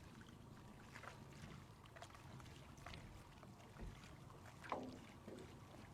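Near silence, with a few faint scattered clicks and soft knocks; one slightly louder knock comes a little under five seconds in.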